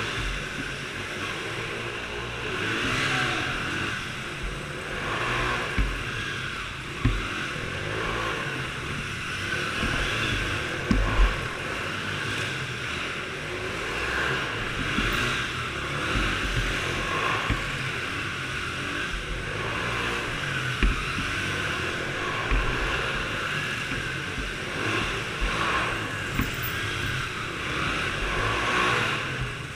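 Small engines running and revving, rising and falling in pitch, with scattered low thuds of wind on the microphone.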